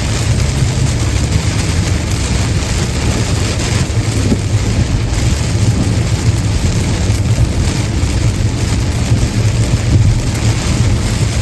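Car driving on a highway in the rain: a steady low rumble of tyres and engine under an even hiss of rain and spray off the wet road.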